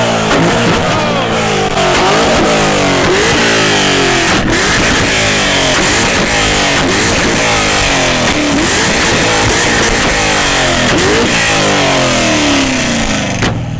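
A car engine revved hard again and again, very loud, its pitch sweeping down after each blip about once a second. It stops abruptly near the end.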